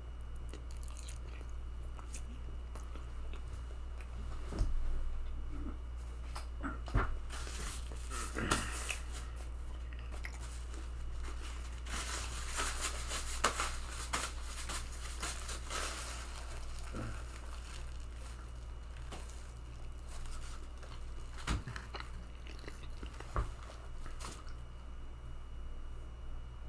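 Quiet chewing with scattered small clicks and rustles of a person shifting about, over a steady low hum. The rustling is thickest about 12 to 16 seconds in.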